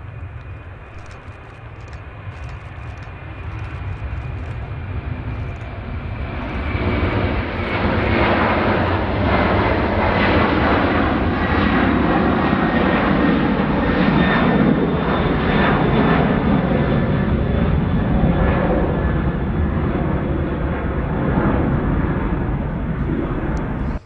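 Jet airliner engines growing louder over the first several seconds as the aircraft passes, then holding loud: a deep rumble with a steady high whine on top.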